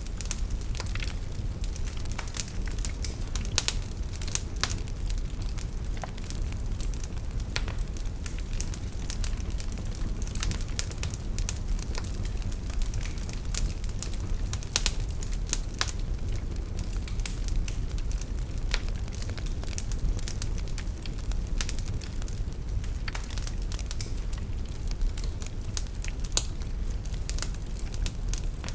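Wood fire burning in a fireplace, with a steady low rumble of flame and frequent sharp, irregular crackles and pops.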